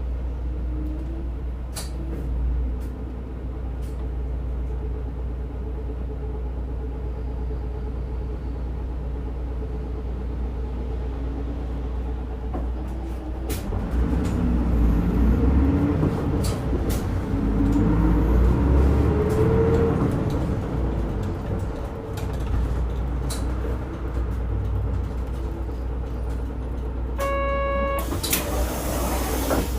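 Diesel engine of a route bus heard from inside the cabin, running steadily and then pulling harder, its pitch rising and stepping through the gears about halfway through. Near the end there is a short beep, followed by a brief hiss of air.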